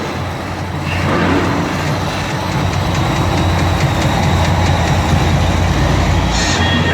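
Monster truck engine running with a deep, steady rumble.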